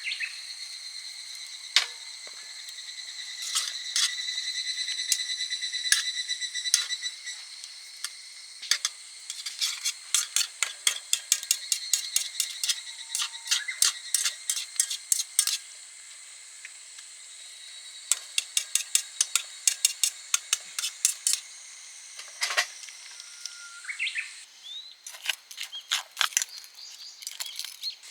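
Runs of quick, light clicks and taps, about five a second, with steady high tones under the first few seconds.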